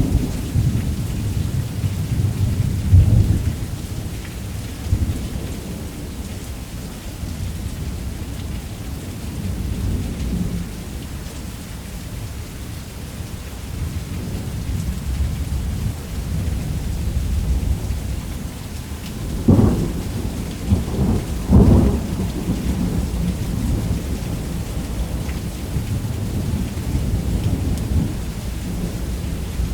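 Steady heavy rain under continuous rolling thunder. A cluster of three sharp thunder cracks comes about two-thirds of the way through.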